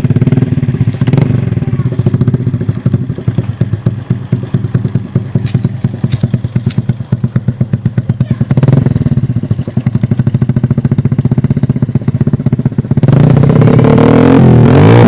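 Honda Revo's single-cylinder four-stroke engine running through an aftermarket CLD Monster racing exhaust, idling with a loud, even beat. The throttle is blipped briefly about two thirds of the way in, and the engine is revved up louder near the end.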